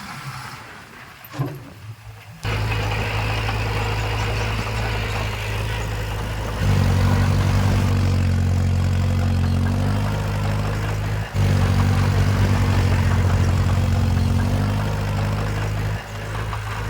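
Heavy-equipment diesel engine running, cutting in abruptly a couple of seconds in. It then works harder and louder for several seconds, with a brief break about two-thirds through, before easing back.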